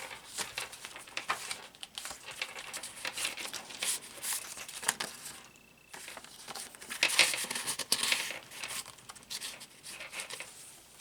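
Paper pages and tucked papers of a handmade travelers-notebook journal rustling and crinkling as they are handled and turned, in uneven bursts with a short lull a little past halfway.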